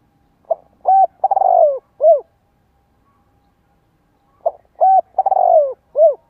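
Spotted dove cooing: two phrases a few seconds apart, each a short note, a clear note, a long wavering note that falls away, and a final short note.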